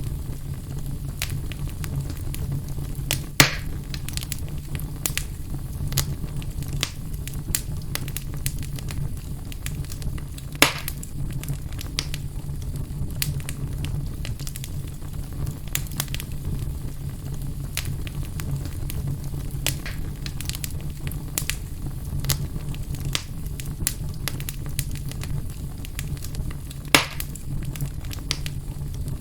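Wood fire burning in a fireplace: a steady low rumble with irregular crackles, and three louder pops about three and a half, eleven and twenty-seven seconds in.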